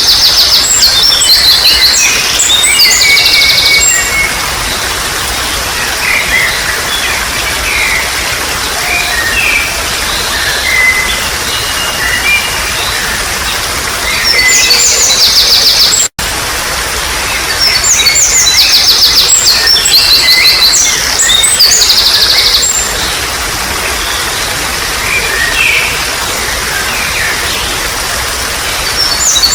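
Songbird singing in phrases of rapid high trills and chirps over the steady trickle of running water. The song comes in bursts, loudest at the start, just before halfway and again after it, and the sound cuts out for an instant just past halfway.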